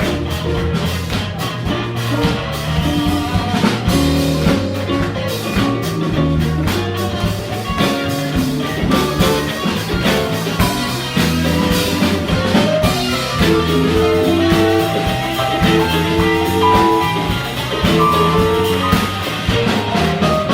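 Live band playing a funk instrumental: drum kit, electric bass, guitars and keyboards, with held melody notes standing out in the later part.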